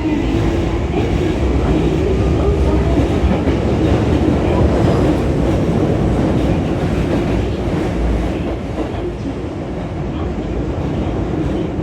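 Hankyu 3300-series train cars running at speed through the subway tunnel, heard from inside the car: a steady rumble of wheels on rail that eases slightly after about eight seconds.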